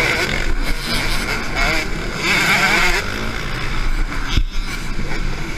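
Motocross bikes running on the track, engines revving up and falling back as they go round.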